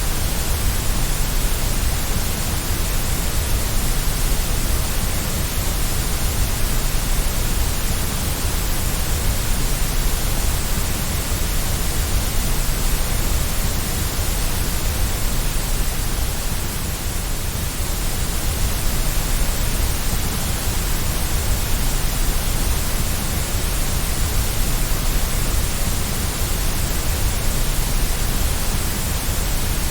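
Steady white noise: a continuous, even hiss that stays the same throughout, with its weight in the low rumble.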